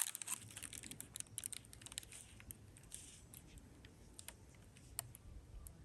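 Faint, scattered light clicks and taps of jewelry pieces and chains being handled and set down, busier in the first couple of seconds and then only a few sharper clicks.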